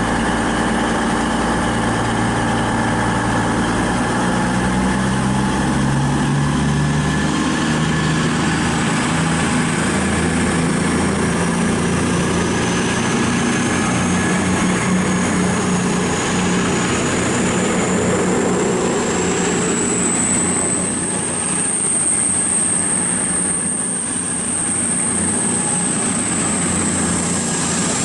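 Two coupled Voyager diesel-electric multiple units, a Class 221 and a Class 220, pulling away. Their engines step up in pitch, and a high whine rises steadily as the train gathers speed, levelling off about two-thirds of the way through.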